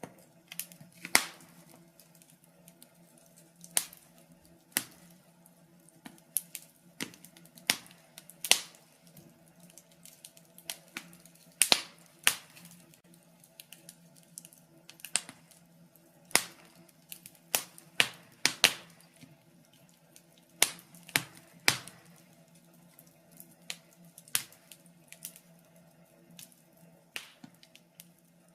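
Wood fire in a fireplace crackling, with irregular sharp pops and snaps over a faint steady low hum.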